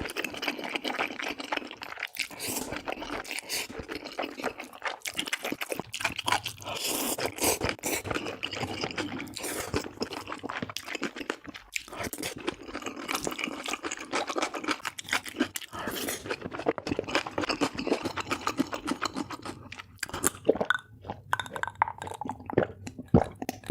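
Close-miked mukbang eating of soft noodles: wet chewing and mouth smacking in a dense run of small clicks, easing briefly near the end before picking up again.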